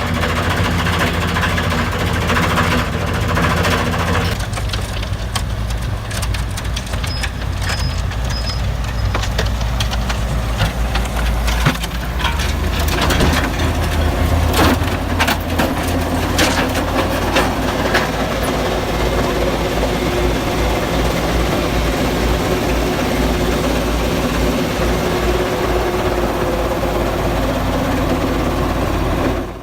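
Engine of a snow blower (rotary snow clearer with its own separate engine) running steadily, with a scatter of sharp cracks and knocks through the middle stretch.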